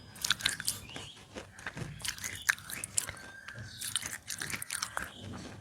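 Close-miked biting and crunching of hard, dry pieces of roasted nakumatt, an edible clay. The sharp crunches come in several bursts of quick cracks, with softer chewing between them.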